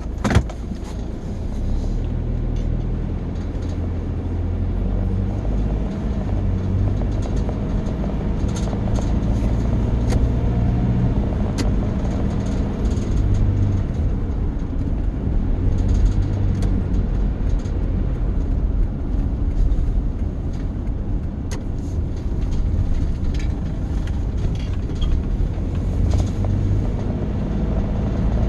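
Car being driven, heard from inside the cabin: a steady low engine and road rumble, with a sharp click at the very start.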